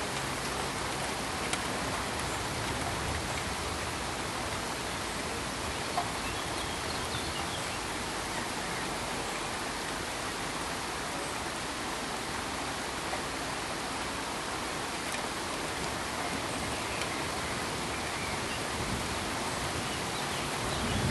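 Steady, even rain-like hiss spread across all pitches, with a few faint scattered ticks and one sharper tick about six seconds in.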